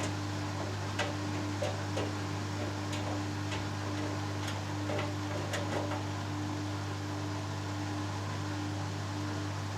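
Hoover Dynamic Next DXA610IW3 front-loading washing machine in the first interim spin of its 20-minute all-in-one cycle, giving a steady motor hum. A scatter of light ticks and clicks comes in over the first six seconds or so.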